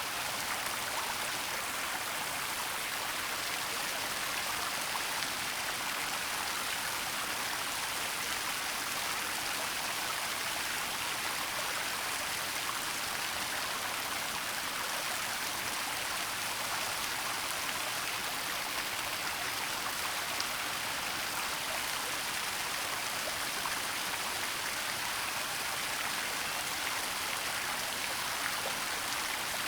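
Waterfall in a forest: a steady hiss of falling and rushing water, even throughout.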